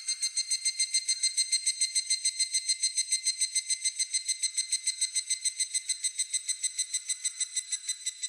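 Evening cicada (higurashi) calling: one long phrase of rapid, ringing pulses, steady through most of its length and trailing off near the end.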